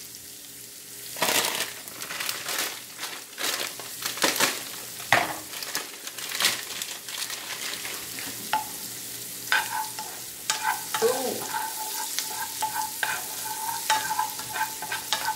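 Chopped onions frying in butter in a skillet, with a steady sizzle and irregular sharp pops and crackles of spattering fat.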